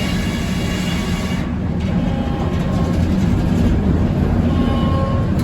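Circular sawmill running, the inserted-tooth saw cutting red oak, with a steady low rumble from the mill's power unit. About a second and a half in, the high hiss drops away and the low running sound carries on.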